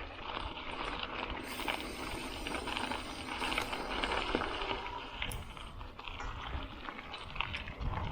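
Bicycle tyres rolling and crunching over gravel, with small clicks and rattles from the bike as it is ridden.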